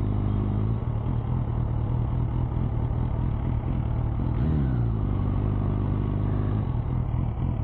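MV Agusta Brutale motorcycle engine running steadily at low revs, with one brief rev up and back down about four and a half seconds in.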